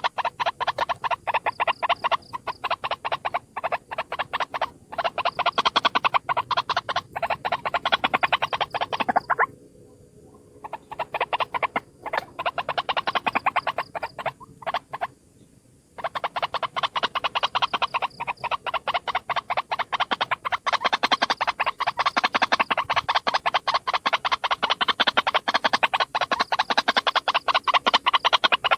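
White-breasted waterhen calling: a long run of rapid repeated notes, broken by two short pauses, about a third of the way in and about halfway through.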